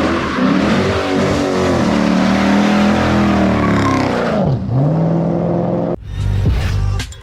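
Straight-piped 5.7-litre Hemi V8 exhaust of a Dodge Charger R/T, loud, its note climbing, holding, then dropping sharply and picking up again. About six seconds in it cuts to a different low rumble with a few sharp knocks.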